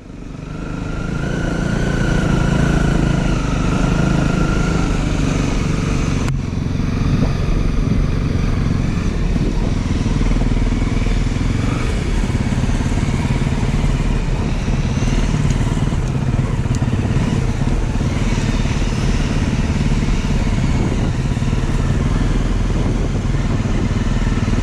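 Motorcycle engine running steadily while being ridden, fading in over the first two seconds.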